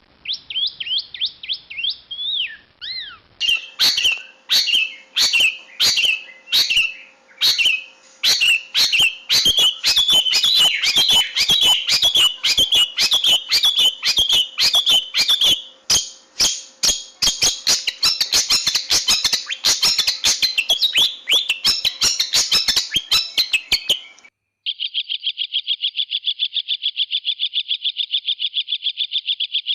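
Long-tailed shrike (cendet) song: a few rising chirps, then a long run of sharp, loud chattering notes mixed with song phrases that come faster and faster. It cuts off abruptly near the end, and a fast, steady trill follows.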